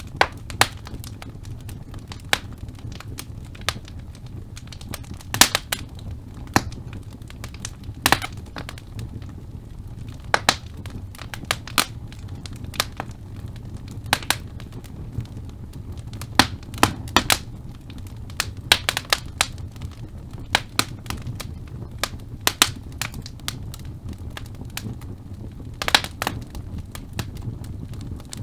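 Wood fire burning in a fireplace: irregular sharp crackles and pops from the burning logs, a few each second, over a steady low rumble of the flames.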